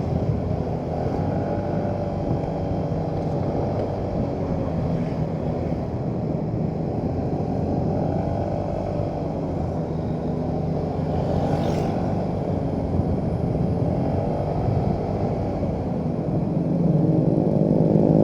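Motorcycle engine running steadily while riding, its pitch rising and falling gently with the throttle, over low road and wind noise. It grows louder near the end.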